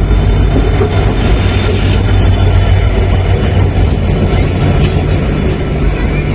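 Train rolling on the rails: a loud, steady rumble with faint high thin squealing tones over it.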